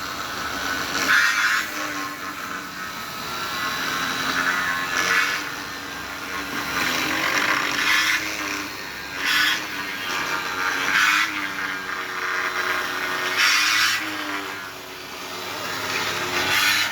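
Massey Ferguson tractor engine running, its pitch rising and falling, with loud surges every second or two.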